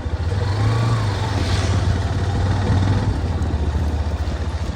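Motorcycle engine running steadily with a low, fast-pulsing throb.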